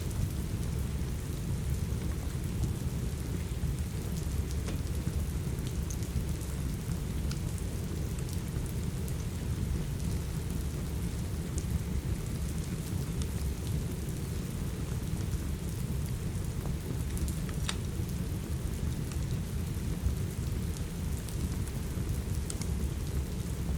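Steady heavy rain, a continuous low-weighted hiss, with sparse sharp crackles and pops from a wood fire scattered over it.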